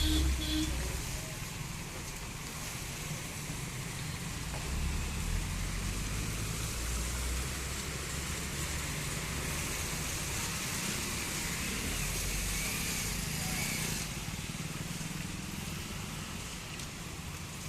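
Road traffic: vehicles running under a steady hiss, with low rumbles that come and go. The sound drops a little about 14 seconds in.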